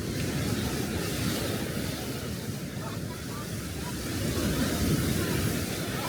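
Sea waves washing onto the shore, swelling twice, with wind buffeting the microphone.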